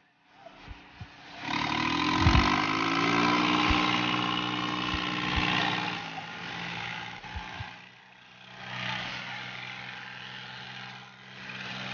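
Tractor diesel engine revving up about a second and a half in, then running steadily at high revs. It eases off for a moment about two-thirds of the way through.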